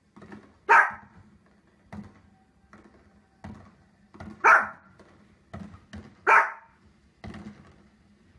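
A small fluffy dog barking at fireworks on the television: three loud, sharp single barks, one about a second in and two more close together past the middle. Fainter pops and thuds from the televised fireworks fall between the barks.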